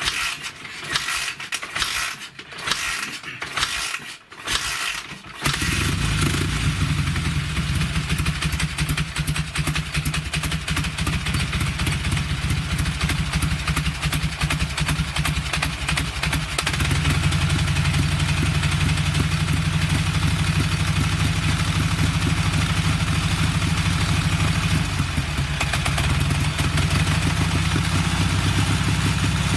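Dnepr sidecar motorcycle's flat-twin engine being started: a few seconds of rough, irregular bursts, then it catches about five seconds in and runs steadily. It picks up to a slightly faster, louder run about halfway through.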